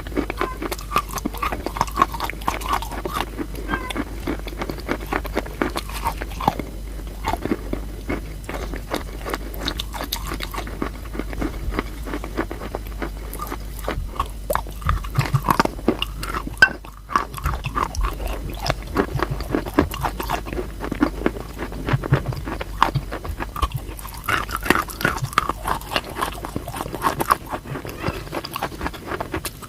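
Crunchy chalk being bitten and chewed close to the microphone: a dense run of crisp crunches and clicks that keeps on, broken once briefly about seventeen seconds in.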